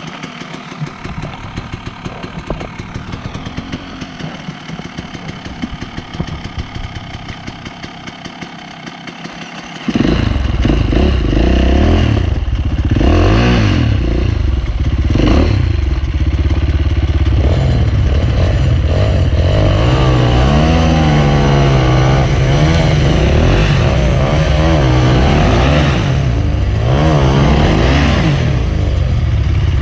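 Enduro dirt bike engine running at low revs, then about ten seconds in a much louder, close engine takes over, revving up and down repeatedly as the rider works the throttle over rough ground.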